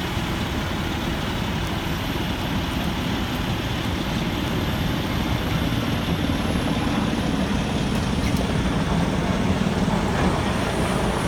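Heavy diesel engine running steadily with a continuous low rumble, getting a little louder about halfway through.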